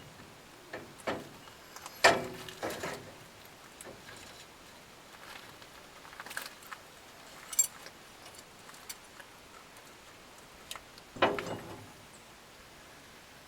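Scattered metallic clinks and knocks of tools and parts being handled, the loudest about two seconds in and again near eleven seconds, each with a brief ring.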